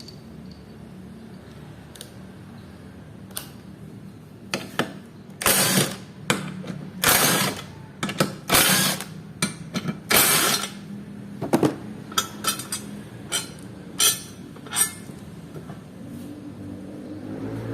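A 12 mm socket wrench undoing the motor scooter's rear grab-rail bolts, with a series of short ratcheting bursts and clicks. The loudest are between about five and eleven seconds in, over a steady low hum.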